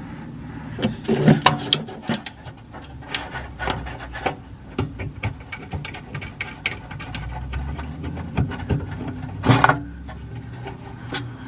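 Irregular clicks, taps and scraping of hand work on an exhaust valve actuator: screws and small metal parts being handled while the worn valve spring is swapped. A cluster of louder knocks comes about a second in and another near the end.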